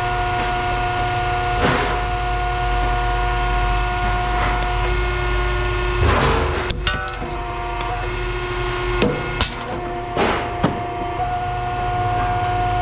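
A machine running with a steady hum and a held tone, broken by a few sharp knocks and clatters, the loudest a cluster about six to seven seconds in and a few more around ten seconds.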